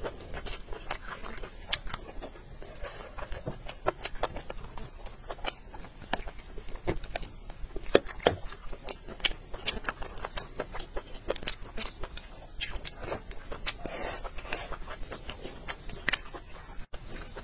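Close-miked chewing: a mouthful of food crunched and chewed with lips closed, giving irregular crisp clicks and crackles several times a second.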